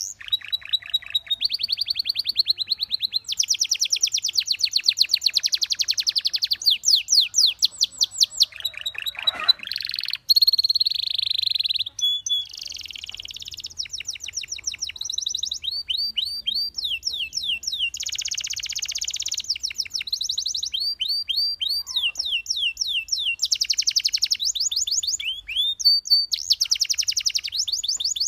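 Belgian canary singing a continuous song of fast trills and rows of quick, sharply sweeping whistled notes. The song changes from one phrase to the next every second or two.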